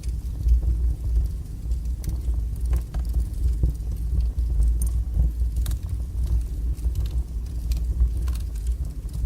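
Wood fire burning in a fireplace: a steady low rumble of the flames with scattered crackles and pops.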